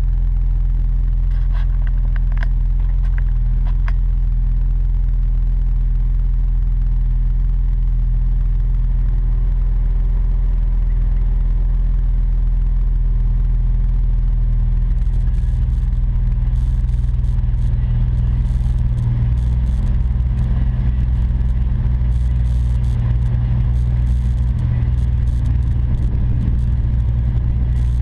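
2007 Acura TL's V6 running through a quad-tip catback exhaust with aftermarket mufflers, a steady low exhaust drone. About halfway through, the low tone shifts and an intermittent crackly hiss joins it.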